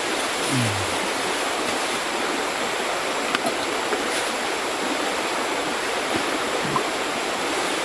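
Steady rushing of a clear mountain river flowing past the bank.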